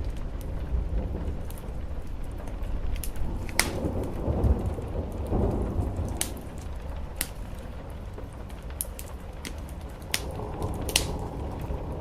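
Steady rain on a roof with a low rumble, and a wood fire crackling with scattered sharp pops, a few of them louder.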